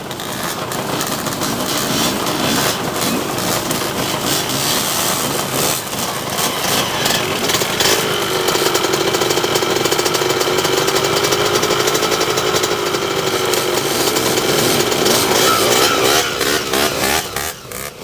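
Dirt bike engine running under changing throttle, its note rising and falling over several seconds about halfway through, over a dense rushing noise.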